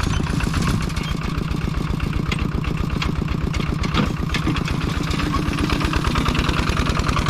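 Small vehicle engine, likely a motorcycle, running steadily at low speed with an even, fast firing rhythm.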